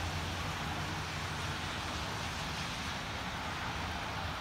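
Steady outdoor hiss of wet snow and rain falling, with a low even rumble underneath.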